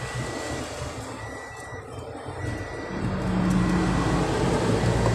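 A vehicle engine running steadily, its hum growing louder about three seconds in.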